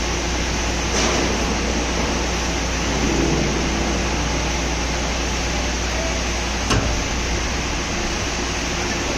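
CNC vertical drilling machine running: a steady machine hum and whir, with one sharp click about two-thirds of the way through.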